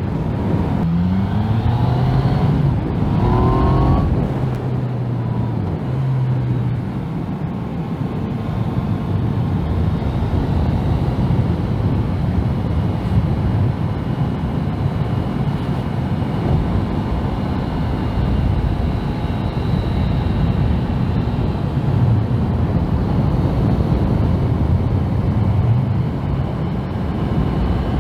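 Yamaha MT-09 inline-three engine pulling up through the revs in the first few seconds, then running at steady revs while the bike cruises.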